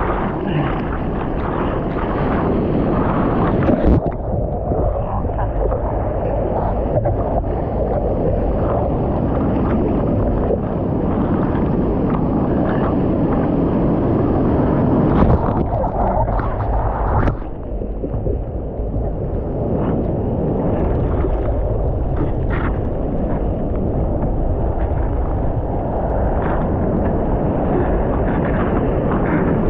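Loud, steady rush of wind and water noise buffeting the microphone, with a few brief knocks.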